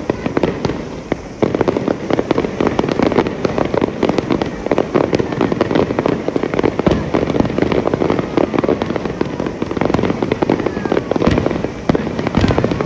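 Fireworks bursting close by: a dense, continuous crackling of many small reports, with a few heavier booms and brief whistling glides near the end.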